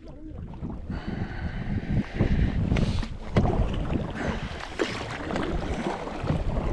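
Wind buffeting the microphone over water sloshing and splashing around a kayak, with irregular sharp splashes.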